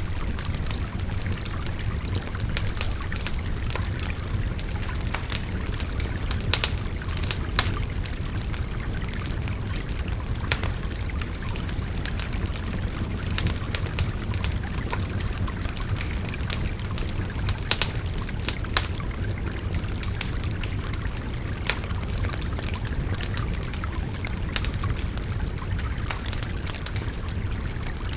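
Wood fire crackling, with scattered sharp pops all through, over the steady rush of a babbling stream.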